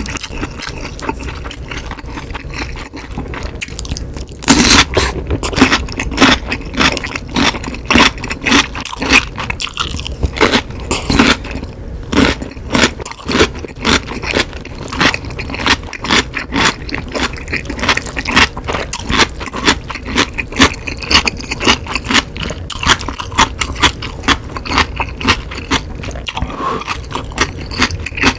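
Close-miked chewing of kimchi: a dense run of crisp, wet crunches, about two or three a second, that starts loudly about four seconds in and keeps on.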